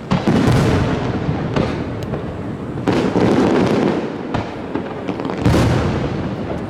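Fireworks shells bursting in a rapid string of about six loud bangs, each trailing off into rumbling echo.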